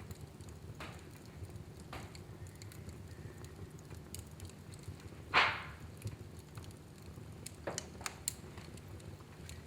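Fire burning in a fireplace: a low steady rumble with scattered faint crackles, one louder snap about halfway through, and a few more crackles near the end.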